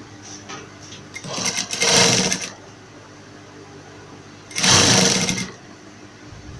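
Sewing machine stitching a fabric border onto a bedsheet, running in two short bursts: one of about a second starting about a second in, and a shorter one near five seconds.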